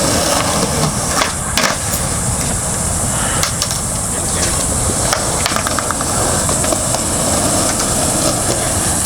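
Skateboard wheels rolling on concrete with a few sharp clacks, under a steady high-pitched drone of cicadas.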